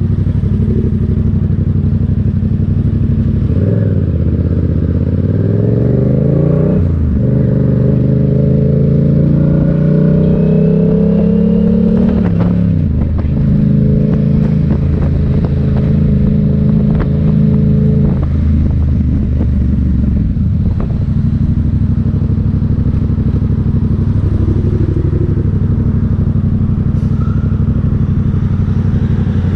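Motorcycle engine pulling away through the gears: its pitch climbs, drops at a shift, climbs again and drops, then holds a steady note for the rest of the stretch.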